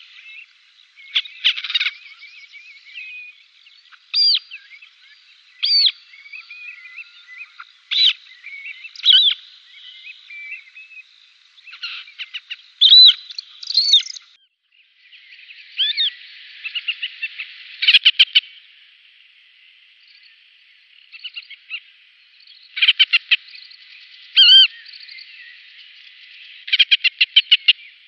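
Harrier calls: a western marsh harrier's, then a Montagu's harrier's from a different recording partway through. Single sharp, hooked call notes alternate with quick chattering runs of short notes.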